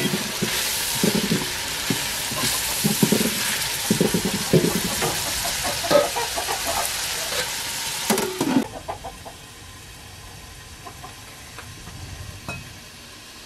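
Boiled meat, onions and tomatoes frying and sizzling in an aluminium pot over a wood fire, with a wooden spoon scraping and stirring through them in repeated strokes; the meat is frying after its broth was poured off. The sizzling cuts off suddenly about nine seconds in, leaving a much quieter background.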